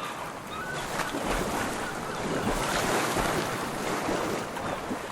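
Ocean surf and wind at sea, rising to a swell in the middle and easing off near the end.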